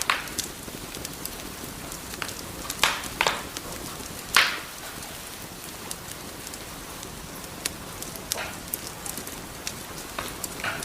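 Wood fire crackling in a fireplace: a steady hiss of burning logs with irregular sharp pops and snaps, a few louder pops a third of the way through.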